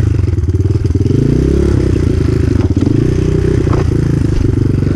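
Enduro motorcycle engine revving up and down as the bike is ridden over rocks, with a couple of short knocks from the bike striking stone.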